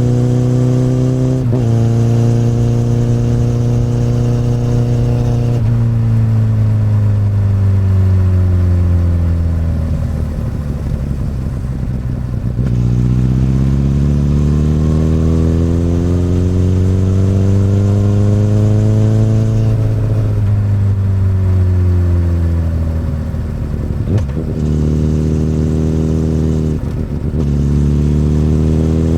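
A 2008 Honda CBR1000RR inline-four running through an Akrapovic exhaust while being ridden. The engine note holds steady, falls away for several seconds as the bike slows, then climbs under throttle, drops again, and picks back up after a couple of quick breaks from gear changes near the end.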